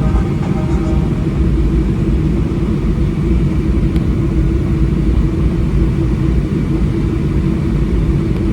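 Steady low rumble inside the cabin of a Boeing 737-800 with its CFM56 engines running, with a constant droning tone.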